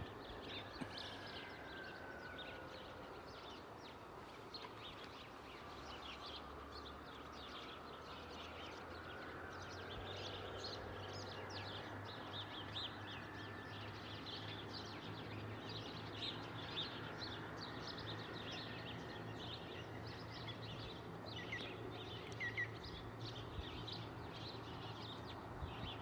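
Many small birds chirping in quick, overlapping calls, faint, over a low steady hum.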